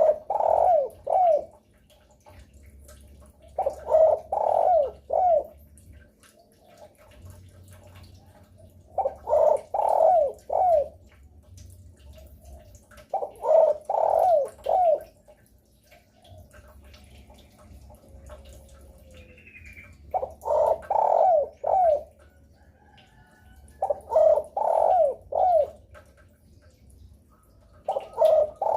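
Spotted dove cooing: short phrases of three or four quick coos, repeated about every four to five seconds.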